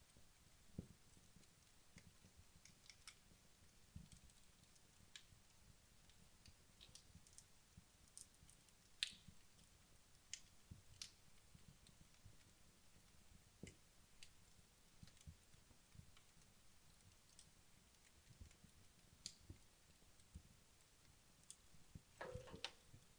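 Wood logs burning in a fireplace, crackling faintly with sparse, irregular pops and ticks. The sharpest pop comes about nine seconds in, and a brief cluster of crackles comes near the end.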